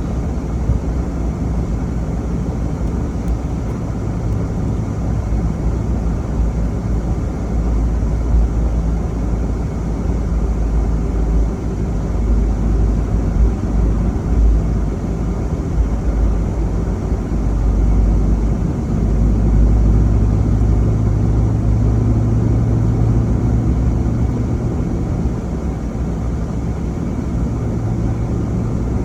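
Vehicle driving: steady low engine hum and road rumble, swelling for a few seconds about two-thirds of the way through.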